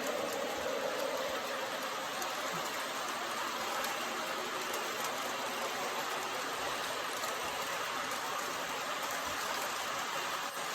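MTH Propane Turbine O-gauge model locomotive running steadily on the track: an even rushing noise that holds without change.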